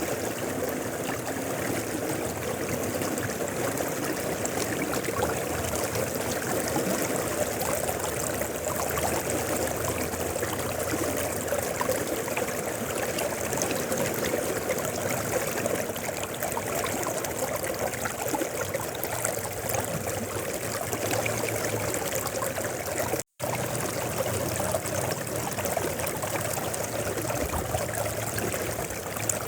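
Mountain river flowing, a steady rushing of water with no change in level. The sound cuts out for an instant about three-quarters of the way through, then resumes.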